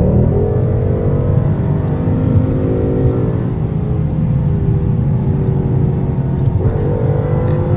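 Ford Mustang GT's 5.0-litre V8 engine running under way with a deep, loud rumble. The pitch rises briefly at the start, sags slowly, then jumps up sharply about six and a half seconds in as the revs climb.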